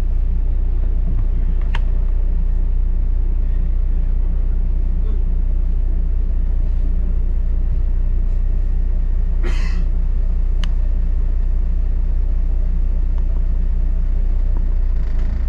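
Double-decker bus riding along, its engine and road noise making a steady low rumble heard from on board. A short hiss comes about nine and a half seconds in, and there are a few sharp clicks.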